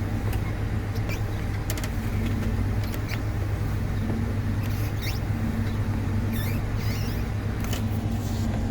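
Engine of a farm machine running steadily while being driven, with scattered short high squeaks and clicks over it.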